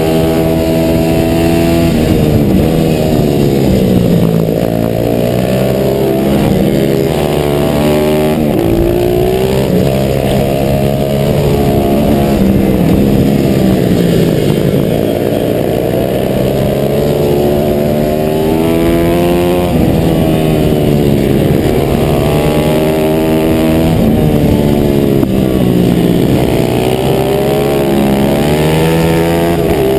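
Onboard sound of a 140cc pit bike engine at race pace. The revs climb and drop back again and again through gear changes and corners.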